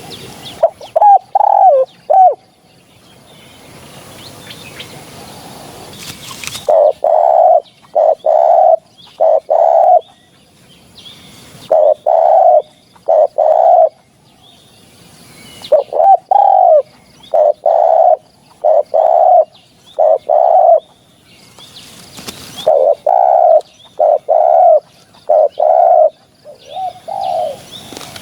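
Spotted dove cooing: loud, repeated coo notes in runs of two to seven with pauses between, the song used as a lure call for wild spotted doves.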